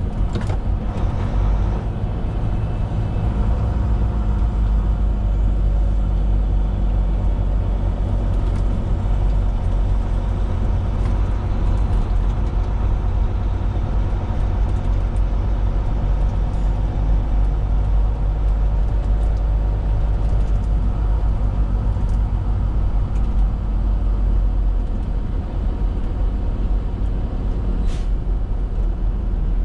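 Semi-truck's diesel engine running steadily, heard from inside the cab as the tractor-trailer drives slowly around a truck stop lot: a heavy low rumble with a steady engine hum. A brief sharp sound near the end.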